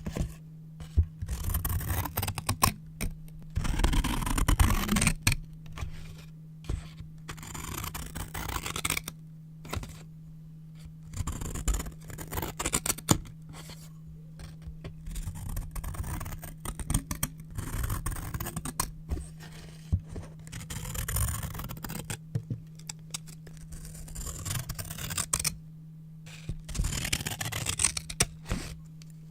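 Scissors cutting brown paper in irregular bursts of snips and crisp slicing, with paper rustling and scraping between cuts. A steady low hum runs underneath.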